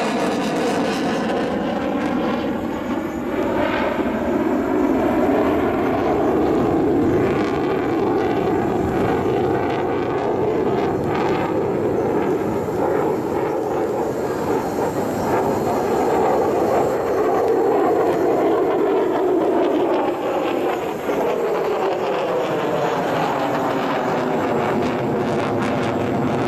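Mitsubishi F-2 fighter's single turbofan jet engine heard continuously as the jet manoeuvres in a display flight. The noise has a sweeping, phasing quality that slides down in pitch in the first couple of seconds and slides up again near the end as the jet passes.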